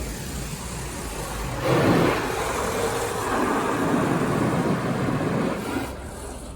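D&S IQ 2.0 soft-touch in-bay car wash machine working over the car, a loud rushing noise that swells sharply about two seconds in and fades away near the end.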